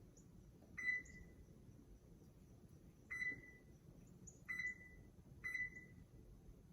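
Oven control-panel keypad beeping four times at irregular intervals, short single-tone beeps as the buttons are pressed to set the preheat temperature.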